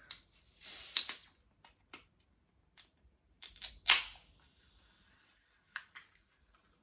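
Ring-pull on a can of fizzy lemon drink being worked open: a sharp crack and hiss of escaping gas about a second in, a few small clicks of the tab, then a second crack with a fizz that dies away about four seconds in.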